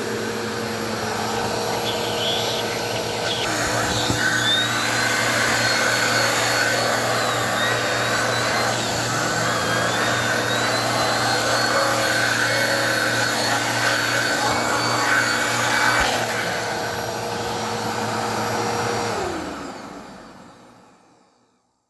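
Bissell PowerForce Helix Turbo Rewind upright vacuum running with a steady motor whine. From about 3 to 16 seconds in, a second, wavering higher whistle joins it. Near the end the vacuum is switched off and its motor winds down, the whine falling in pitch as it fades out.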